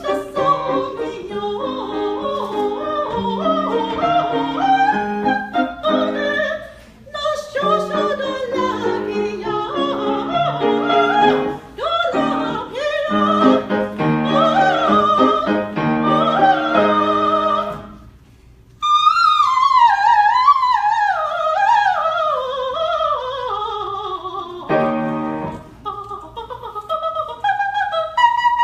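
Classical music: an operatic-style voice with vibrato over piano and instrumental accompaniment, with short pauses between phrases. About two-thirds of the way through, a fast run of descending trilling phrases sweeps downward.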